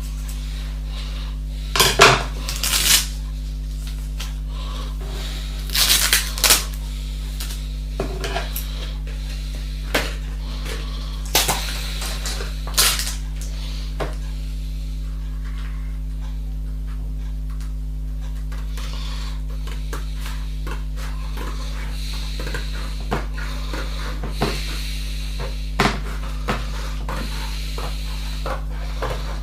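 Hard objects clattering and knocking now and then, loudest in two clusters in the first seven seconds, over a steady low hum.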